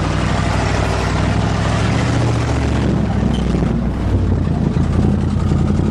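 GMC pickup truck's gasoline engine running hard under load as the truck pushes through a mud hole: a steady low drone that dips briefly about four seconds in.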